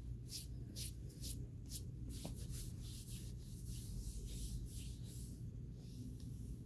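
Powder being chewed close to the microphone: a string of short, dry, scratchy crunches, spaced out at first, then coming quickly through the middle and thinning out near the end. A steady low hum runs underneath.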